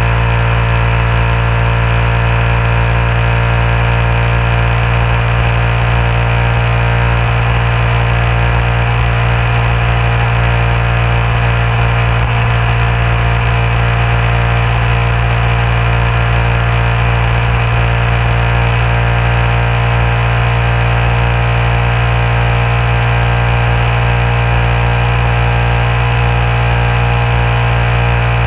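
Motorcycle engine running at a steady cruising speed, its pitch held constant, with road and wind noise underneath.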